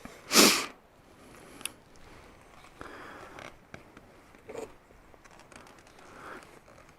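A short loud rustle about half a second in, followed by faint scrapes and small clicks of handling.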